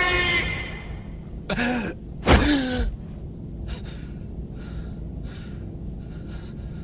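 A voice gasping twice, two short sharp gasps about a second apart, followed by faint breathing, as background music fades out at the start.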